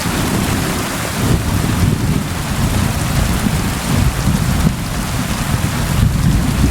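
Steady rain with a low rolling rumble of thunder that sets in right at the start, swelling and fading.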